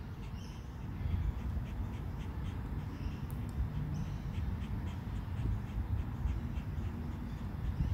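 Birds calling in short, harsh, scattered notes, which the speaker takes for noisy miners or Indian mynas, over a steady low rumble.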